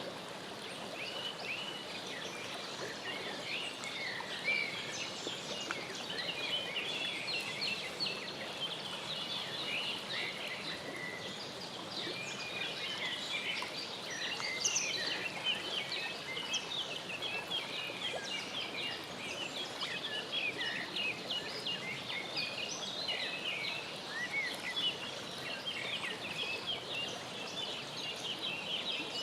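A brood of mallard ducklings peeping continuously: many short, overlapping high peeps, with a light steady background hiss.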